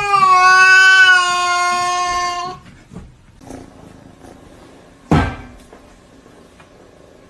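A cat's long, drawn-out meow, held on one steady pitch for about two and a half seconds. About five seconds in comes a single sharp thump.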